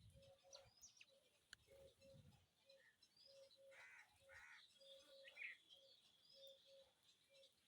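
Faint outdoor birdsong: scattered high chirps of house sparrows, a steady run of short low notes repeating about twice a second from another bird, and two harsh crow caws about four seconds in.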